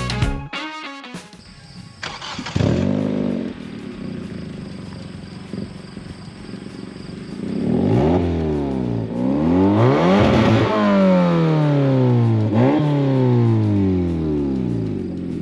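Muffler-deleted 2005 Hyundai Tiburon engine starting about two and a half seconds in with a short flare, settling to idle, then revved several times, the last rev falling slowly back toward idle. The straight-through exhaust runs with no muffler.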